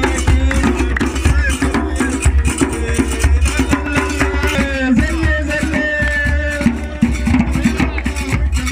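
Folk music: hand drums beaten in a fast, dense rhythm with voices singing over them.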